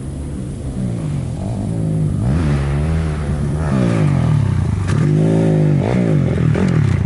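Motocross dirt bike engine running at a steady idle, then revved up and down over and over from about two seconds in, its pitch rising and falling.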